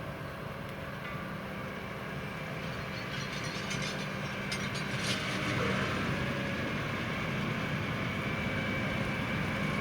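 Tractor and Standen T3 three-row trailed potato harvester at work: steady engine running with the harvester's moving parts clattering. A spell of rattling clicks comes a few seconds in, and the sound grows louder.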